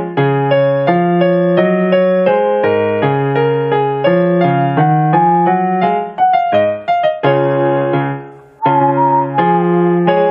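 Yamaha electronic keyboard playing a slow tune in D-flat major with a piano sound, in steady chords. A single wavering melody line, a whistled tune, comes in over the keyboard about nine seconds in.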